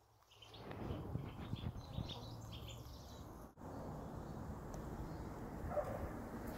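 Birds chirping over a steady low rumble of outdoor background noise, with the chirps clustered in the first half.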